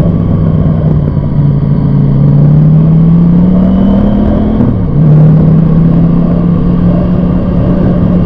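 Motorcycle engine running under way, its pitch climbing steadily as it accelerates, dropping abruptly about five seconds in at a gear change, then climbing slowly again.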